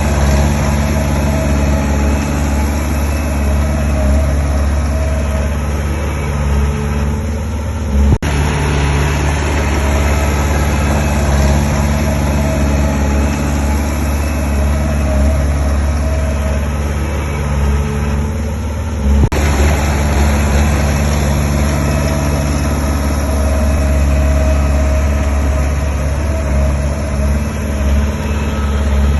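Heavy construction machine's diesel engine running steadily with a low hum, broken by two abrupt cuts about 8 and 19 seconds in.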